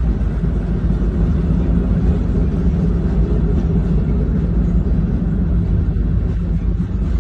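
Freight train loaded with military vehicles rolling past, a steady low rumble of its wheels on the rails.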